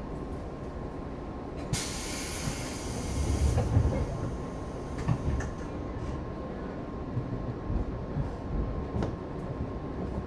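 Interior sound of a JR East 211-series electric train: a low rumble with a steady thin hum. About two seconds in comes a loud release of compressed air that hisses for a couple of seconds and then fades, followed by a few low knocks.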